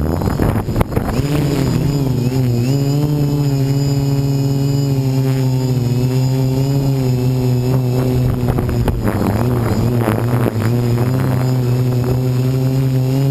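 Quadcopter motors and propellers running with a steady multi-tone hum whose pitch wavers slightly as it holds against the wind. Wind rushes over the onboard camera's microphone about a second in and again around 8 to 10 seconds.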